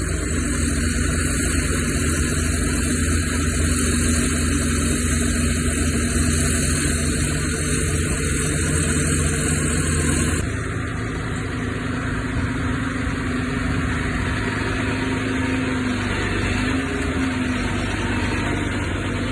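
Heavy diesel earthmoving machinery running steadily, a bulldozer or dump truck engine, with a constant low drone. The sound changes abruptly about halfway through, then carries on as before.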